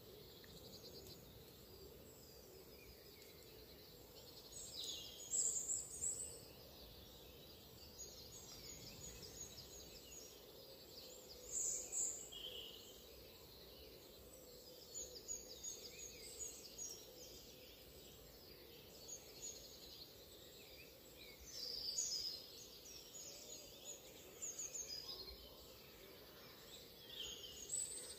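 Birds calling over a steady low outdoor background noise: many short, faint high chirps, with louder high calls about five, twelve, twenty-two and twenty-seven seconds in.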